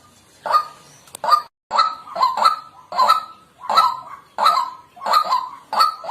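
White-breasted waterhen calling, a harsh croaking note repeated about every half to three-quarters of a second, some calls in quick pairs.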